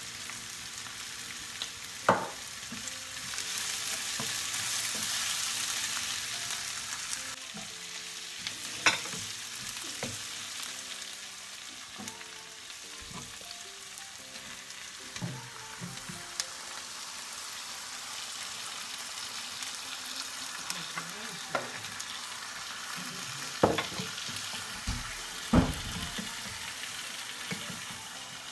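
Onions, and then tomatoes, sizzling steadily in a non-stick frying pan while being stirred with a wooden spatula. Several sharp knocks of the spatula against the pan come at intervals, and the hiss grows louder for a few seconds about three seconds in.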